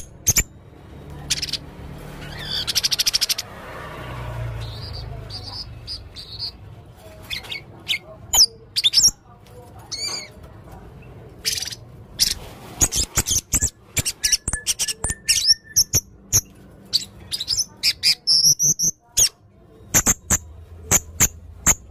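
Hanging parrot (serindit) calling actively in a varied series of short, sharp, high-pitched chirps and whistles, including a fast trill about three seconds in.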